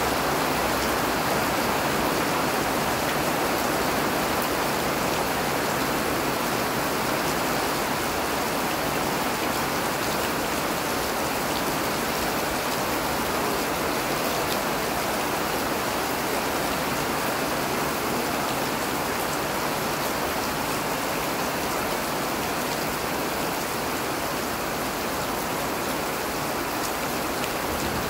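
Steady rain falling: a dense, even hiss of water with a faint patter of individual drops.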